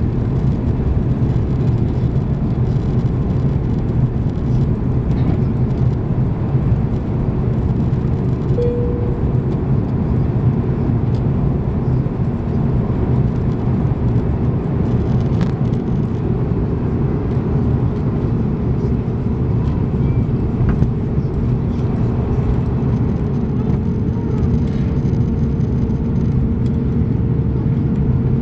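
Steady low rumble of an Airbus A340-300's four CFM56 engines and airflow, heard inside the cabin. A thin steady hum joins briefly about eight seconds in and again near the end.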